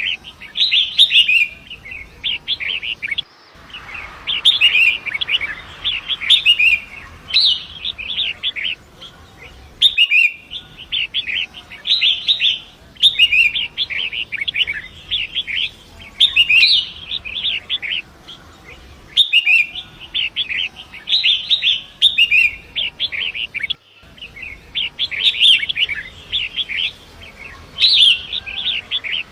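Long-tailed shrike (pentet) singing: fast, scratchy chattering phrases in bursts of a second or two, repeated with short pauses. The whole sound drops out briefly a few times.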